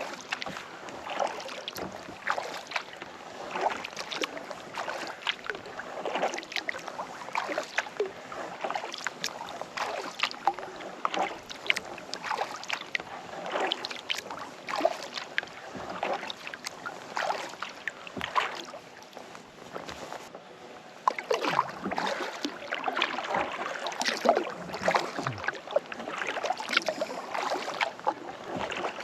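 Kayak paddle strokes dipping into and pulling through lake water, with splashes and drips in a steady rhythm of roughly one stroke a second. A short lull about twenty seconds in, then busier splashing.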